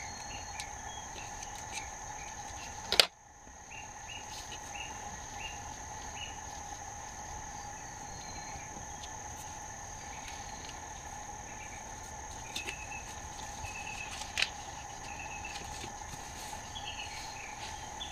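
Steady, unbroken trilling of an insect chorus at several pitches, with scattered short chirps. A sharp click about three seconds in, then a brief dip, and another click later on.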